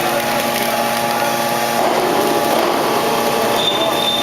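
Bead wire baler running: a steady machine drone with several fixed hum tones. About two seconds in the drone shifts and a rougher, noisier sound joins it.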